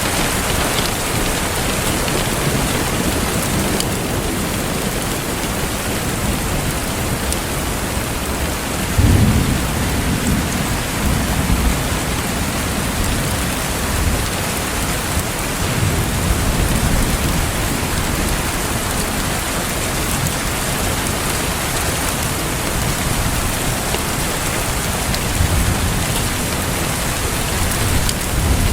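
Steady rain with a continuous hiss. Low rumbles swell and fade underneath it several times; the loudest starts suddenly about nine seconds in.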